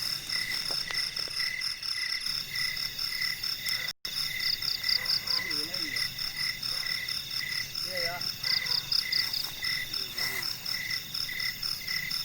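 Night chorus of frogs and insects in forest: evenly repeated pulsing calls, a couple to a second, over a steady high-pitched insect drone. The sound cuts out for an instant about four seconds in.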